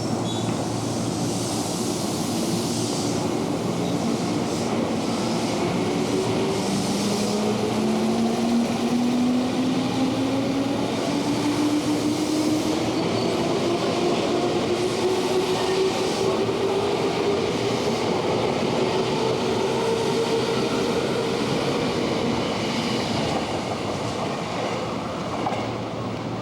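205 series electric train accelerating, its traction motor whine rising steadily in pitch over the rumble of wheels on rail.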